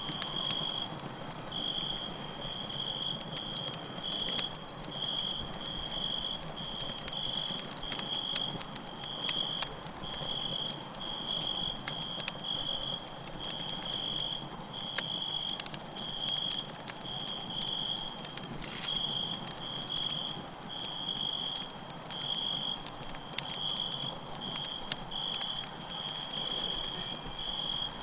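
Campfire crackling with scattered sharp pops, over crickets chirping in an even, high-pitched rhythm of a little over one chirp a second.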